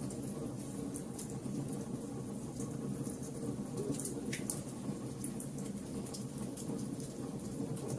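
Wood fire burning with a steady low rush and frequent small crackles and pops.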